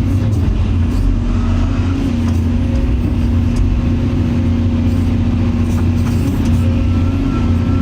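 Excavator's diesel engine running steadily as the machine works, loading a dump truck; a faint high whine joins near the end.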